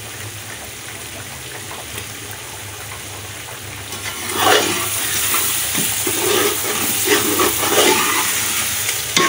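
Potato and spice masala sizzling in hot oil in a large aluminium pot. About four seconds in, a ladle starts stirring it: the sizzle gets louder, with scraping and clinks of the ladle against the pot.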